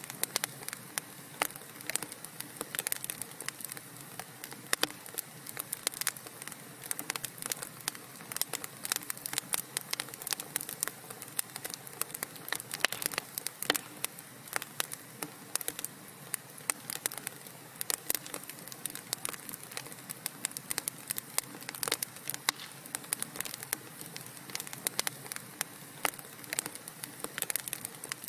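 Wood fire in a fireplace crackling, with many small irregular pops and snaps over a low steady hiss.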